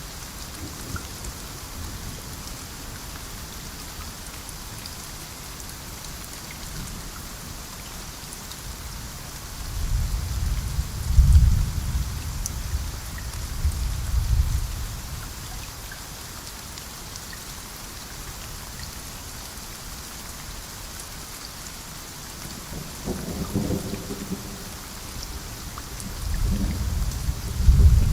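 Steady heavy rain in a rainforest with rolling thunder: a long deep rumble about ten seconds in that swells twice, then a shorter rumble past twenty seconds and another near the end.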